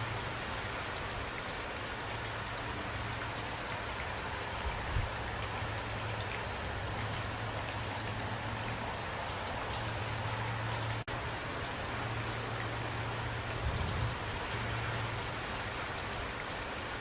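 Steady rain, an even hiss with scattered individual drops ticking, over a low hum. The sound cuts out for an instant about eleven seconds in.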